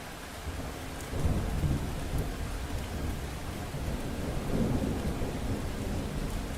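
Thunder rumbling over steady rain. The deep rumble comes in about a second in and swells again past the middle.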